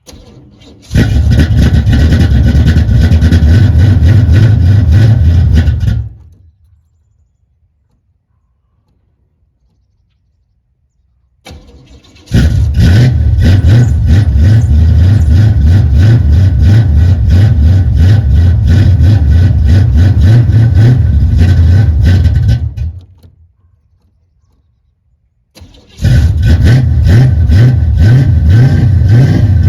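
1978 El Camino's engine being cold-started with no choke. It fires and runs for about five seconds, then dies. It is restarted and runs about ten seconds before dying again, then fires a third time near the end.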